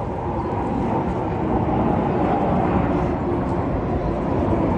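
Aircraft engine noise from a flyover: a steady, loud rumble with a faint droning tone, growing slightly louder after about a second.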